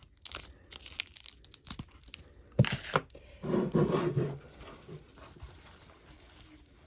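Foil-wrapped jewelry packet, coated in wax, crinkling and tearing as it is cut open with scissors. A string of sharp clicks runs through the first few seconds, two of them louder about two and a half and three seconds in, then a denser patch of crinkling.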